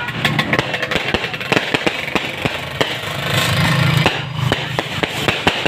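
Fireworks and firecrackers crackling in a dense, rapid run of overlapping sharp pops. A low steady hum swells underneath about three seconds in.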